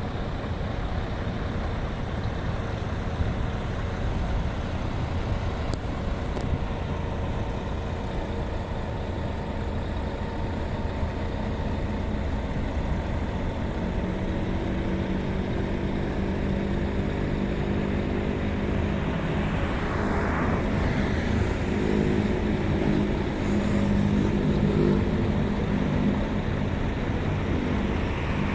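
Scania V8 diesel truck engine running on the move over steady road rumble. The engine's note comes through more clearly from about halfway and gets slightly louder toward the end.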